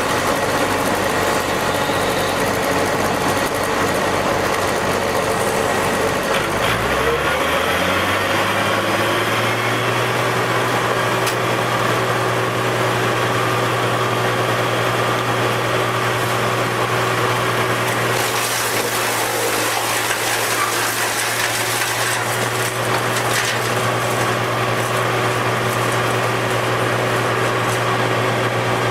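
An engine running, revving up about seven seconds in and then holding a steady higher speed, with a hissing, rushing noise joining about halfway through.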